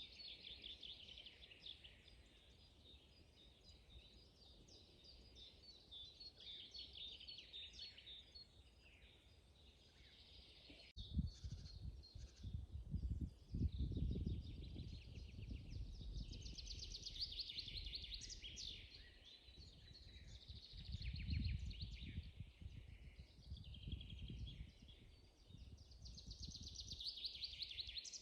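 Songbirds singing, with rapid trills and chirps overlapping throughout. About a third of the way in there is a sharp click, then a low rumble that comes and goes in gusts.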